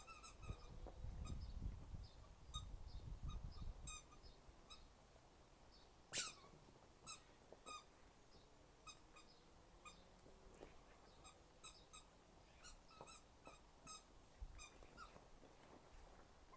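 Faint birds chirping: scattered short, high notes throughout, with one sharp falling call about six seconds in. A low rumble runs through the first four seconds.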